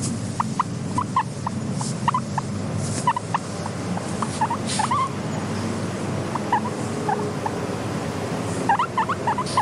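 Guinea pig squeaking in short, rising chirps that come in little clusters, the busiest near the end, over a steady low rumble.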